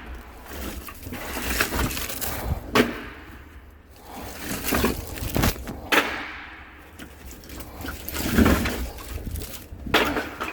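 Split firewood being handled and stacked: irregular wooden knocks as pieces strike each other, with scraping and rustling in between.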